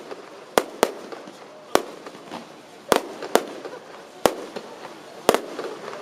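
Fireworks display: aerial shells bursting overhead as a string of sharp bangs, about seven in six seconds at irregular intervals.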